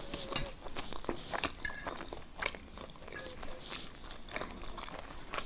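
A person chewing food, with soft mouth sounds and faint scattered clicks.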